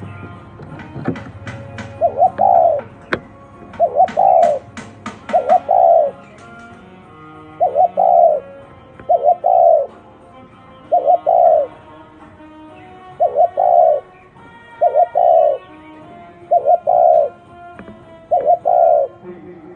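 Spotted dove cooing over and over: a short, low, pulsed coo phrase repeated about every one and a half to two seconds, a dozen times. A quick run of sharp clicks sounds with the coos in the first several seconds.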